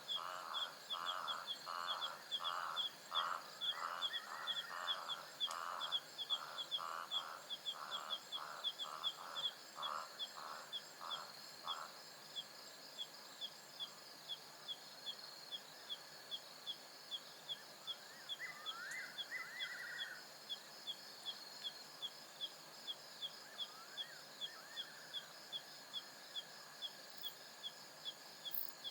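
African savanna night ambience: a steady high chorus of insects, with a sharp ticking call repeating about twice a second throughout. For the first twelve seconds a louder animal call pulses rapidly over it, then stops, and two short chirping calls follow later on.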